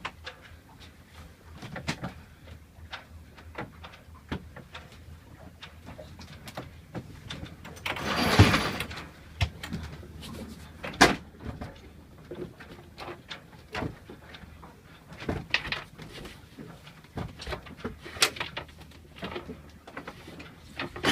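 Scattered knocks, clicks and creaks aboard a small sailboat under way, over a low steady hum, with a loud noisy burst lasting about a second partway through and a sharp knock shortly after.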